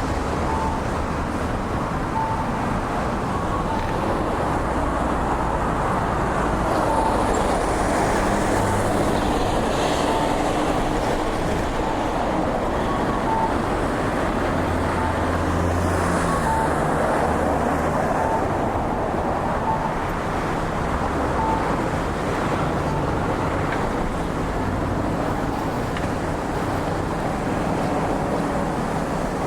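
Road traffic going by steadily, with a short beep near 1 kHz repeating about once a second.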